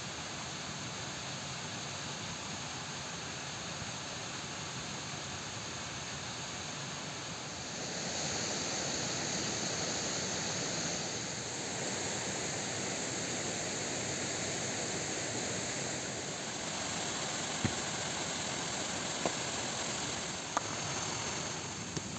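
Steady rushing outdoor noise that swells a little about eight seconds in, with a few faint clicks near the end.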